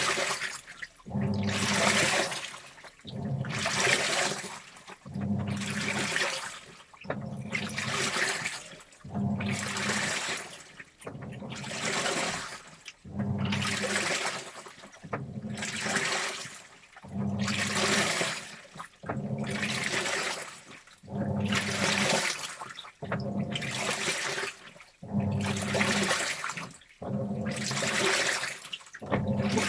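Washing machine in its wash cycle: water sloshing through the laundry in surges about every two seconds as the drum or agitator turns one way and then the other, with a low motor hum under each surge.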